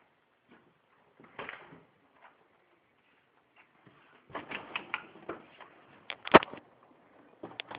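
Blizzard wind buffeting a phone microphone: irregular crackles and knocks over a faint hiss, with a sharp loud knock about six seconds in.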